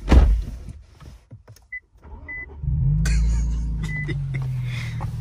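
A thump, then three short electronic beeps. About two and a half seconds in, the Infiniti Q60's engine starts and idles steadily.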